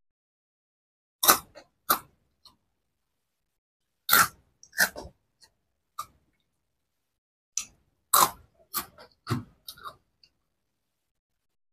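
Close-up crunching of potato-flavoured snack sticks being bitten and chewed: about ten short, sharp crunches in small clusters, separated by quiet pauses.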